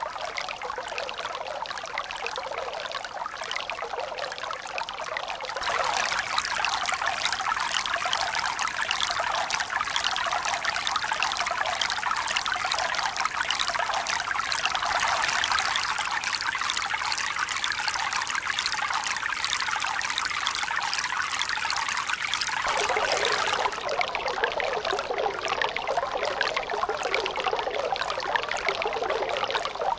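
Steady rush of running water. It turns fuller and brighter suddenly about five seconds in, and changes again, lower and less bright, near twenty-three seconds in.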